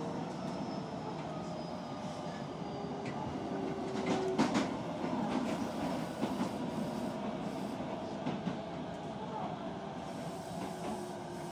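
Running sound inside an Osaka Metro 66 series electric train: a steady rumble of wheels on rail, with faint tones slowly falling in pitch and a few sharp rail-joint clacks about four seconds in.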